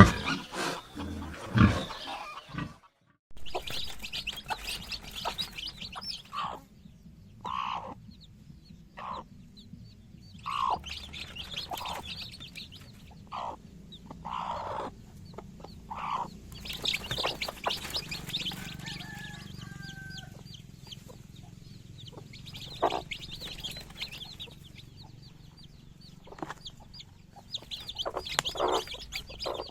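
Hens clucking: short, separate calls every second or so, over a steady high-pitched chatter.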